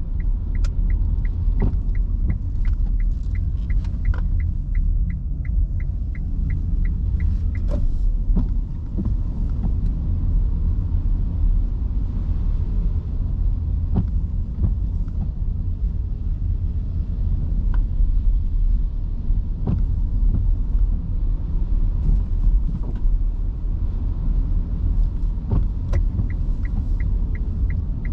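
Inside an electric car's cabin driving on wet city streets: a steady low road and tyre rumble with no engine note. A turn-signal indicator ticks about twice a second for the first several seconds and starts again near the end, with scattered light knocks from rain and the car over the road.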